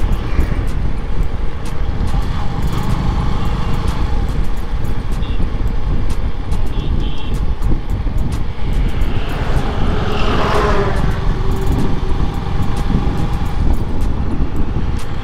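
Road and wind noise from a motorcycle ride: a steady, heavy wind rumble on the helmet or bike-mounted camera microphone over the motorcycle's running and the road. A louder swell of passing-vehicle noise comes about ten seconds in.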